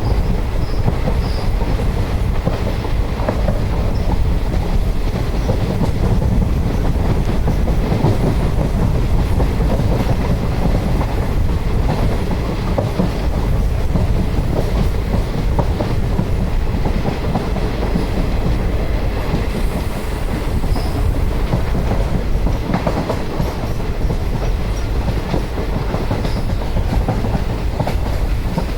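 Train running on the track: a steady heavy rumble with the wheels clattering over the rails.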